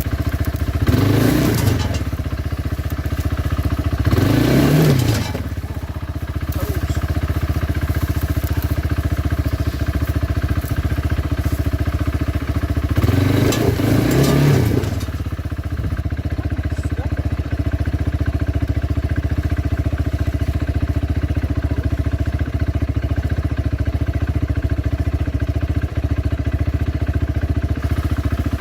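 Kawasaki Brute Force 300 ATV's single-cylinder engine running steadily under way. It revs up and back down three times: about a second in, around four and a half seconds in, and again about halfway through.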